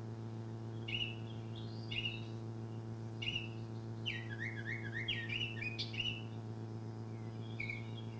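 Recorded Baltimore oriole song played over a PA: short whistled phrases about a second apart, a longer, faster run of notes in the middle, and another phrase near the end, over a steady electrical hum.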